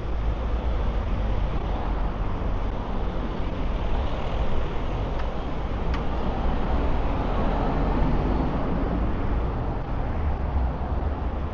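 City street traffic: steady road noise with a low rumble, swelling for a couple of seconds as a vehicle passes about two-thirds of the way through.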